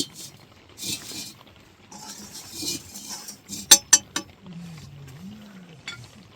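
A few sharp clinks and knocks, with scraping noise before them, then a brief low call that rises and falls.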